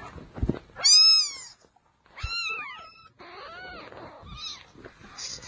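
Cat meowing in several drawn-out calls that rise and fall, the loudest about a second in and a quicker run of them around two to three seconds in, with a couple of low thumps between.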